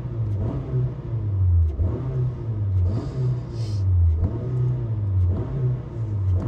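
Car engine being revved repeatedly, its pitch rising and falling about once a second, with a brief hiss near the middle.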